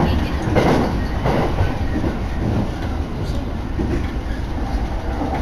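Electric commuter train running along the line, heard from on board: a steady rumble of wheels on the rails with a few brief clatters.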